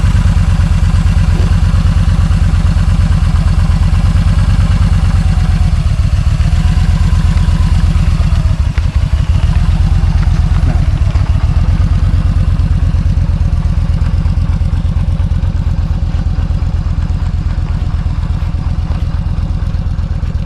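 Yamaha motorcycle engine running at idle, a loud steady low thumping in rapid even pulses.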